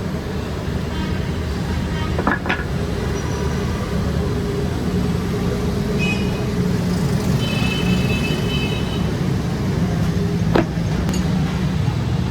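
A machine running steadily with a low hum, with a couple of sharp clicks about two seconds in and near the end.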